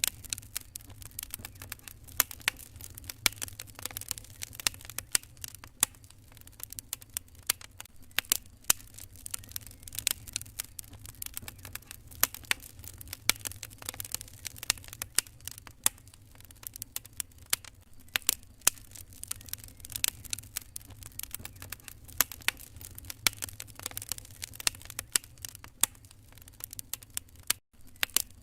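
Wood fire crackling in a fireplace: irregular sharp pops and snaps over a steady low rumble. The sound cuts out for an instant near the end.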